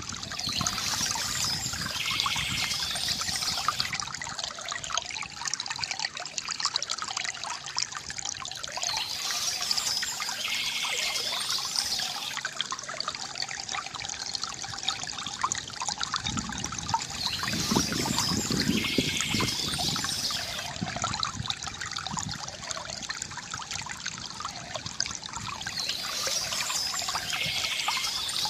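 Water trickling and gurgling steadily from a bamboo fountain, with a fuller gush now and then. Short bird chirps come again every eight seconds or so.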